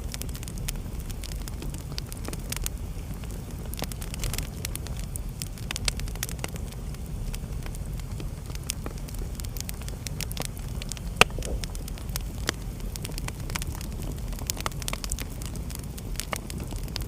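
Wood fire burning in a fireplace: a steady low rumble of the flames with frequent irregular crackles, and one sharp, loud pop about 11 seconds in.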